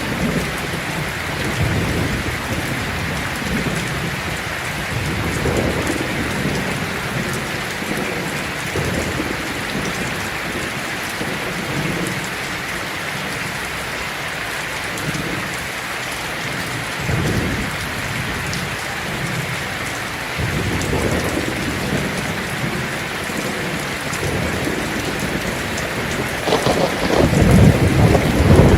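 Heavy rain drumming steadily on a tin roof, with low rolls of thunder rumbling through it several times. The loudest roll builds near the end.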